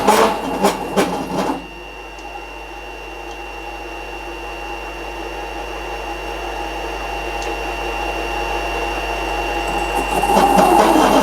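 Workshop machine running with a steady whine that slowly grows louder, with loud, rough working noise for the first second and a half and again near the end.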